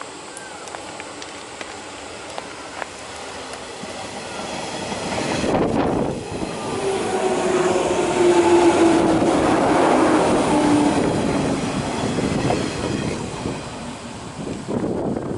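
JR West 103 series electric commuter train passing close by on a curve: the wheels clatter over the rail joints and a hum drops in pitch as it goes by. It builds from about four seconds in, is loudest around eight to ten seconds in, then fades as the train recedes.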